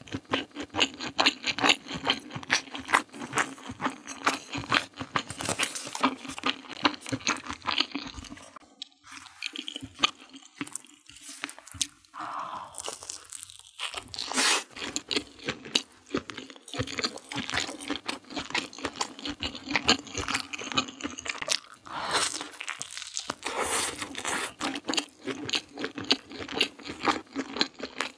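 Close-miked eating sounds: rapid wet chewing and smacking of noodles, then, after a quieter stretch near the middle, bites into and chewing of a sausage-crust pizza slice.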